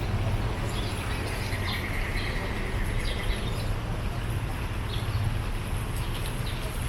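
Birds chirping in short, scattered high calls, with one longer held note early on, over a steady low rumble.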